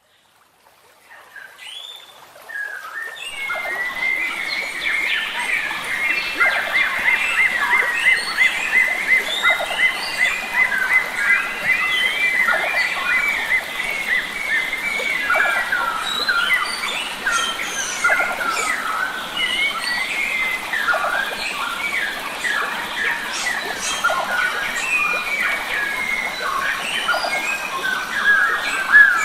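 Mixed wild birdsong chorus fading in from silence over the first few seconds: many birds chirping and trilling at once, one repeating a fast note several times a second for a stretch, over a steady background hiss.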